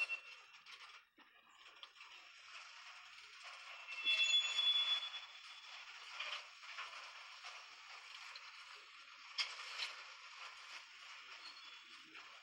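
Rattling and creaking of a train in motion, with a short high squeal about four seconds in and a couple of sharp clicks near the end.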